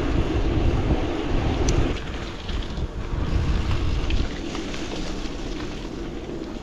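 Wind buffeting an action camera's microphone while riding a bicycle, a heavy rumble with scattered clicks and rattles. It is strongest for the first two seconds and eases after about four seconds.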